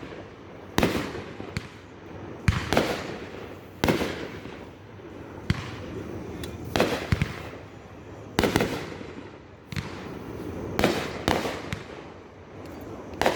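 Consumer fireworks going off in a rapid, irregular series of sharp bangs, about a dozen in all, each followed by a fading crackle or hiss.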